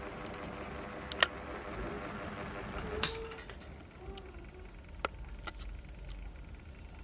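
Small 18-inch ceiling fan running with a steady whir and hum. A sharp click comes about three seconds in, after which the running noise drops, and a few lighter clicks follow.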